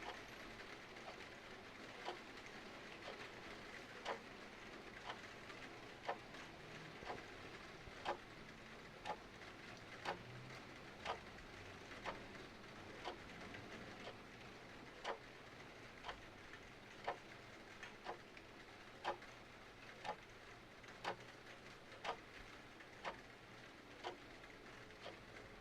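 Mechanical clock ticking about once a second, alternating louder and softer ticks, over a steady hiss of rain.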